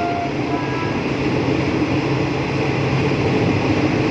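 Steady running noise of a moving passenger train heard from inside the carriage, a constant low rumble and hiss.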